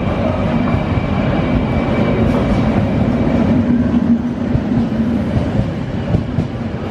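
Passenger train pulling into a station platform: a loud, steady rumble with a low hum running underneath.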